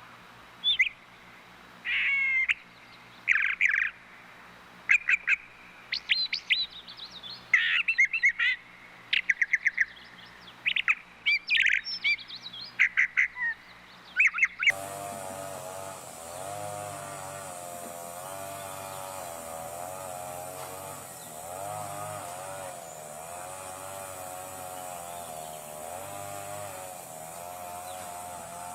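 A bird calling in a series of sharp chirps and squawks, some in quick runs of repeated notes. About halfway through, the calls stop suddenly and give way to a steady droning hum that wavers in pitch.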